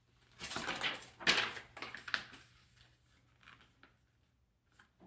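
Rustling and scraping from robot parts and cables being handled, in several noisy bursts over the first two seconds or so, followed by a few light clicks.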